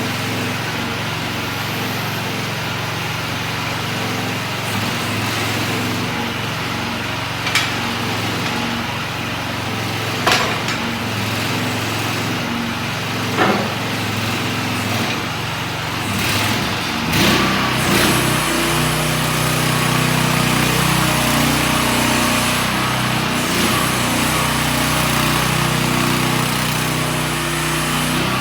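A 2023 AGT QS12R mini excavator's 420cc single-cylinder gas engine runs steadily, with three sharp knocks in the first half. About two-thirds of the way through, the engine sound grows louder and fuller and stays that way.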